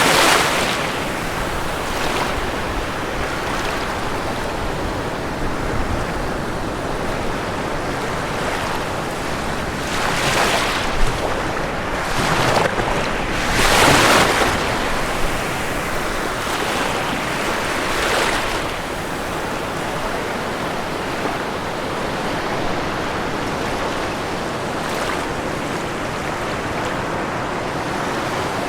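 Ocean waves breaking on a shore, a continuous wash of surf with several larger waves swelling and crashing, the loudest about halfway through.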